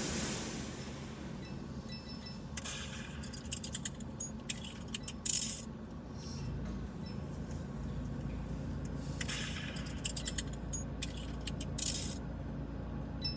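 Automatic car wash heard from inside the car: a steady low hum of the wash machinery, a little stronger about halfway through, with irregular bursts of sharp clicking and clattering against the car.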